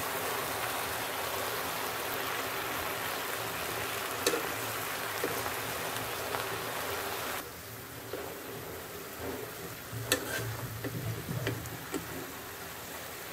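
Water spinach sizzling as it is stir-fried in a pan, with a few sharp clinks of the metal spatula against the pan. The sizzle drops suddenly to a quieter hiss about seven and a half seconds in.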